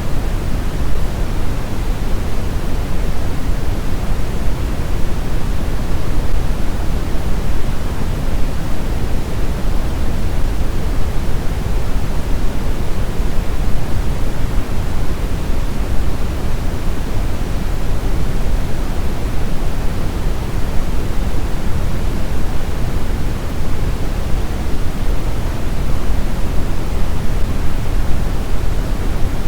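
Steady brown noise: a loud, even, deep rushing hiss, strongest in the bass and thinning toward the treble, with no changes or events.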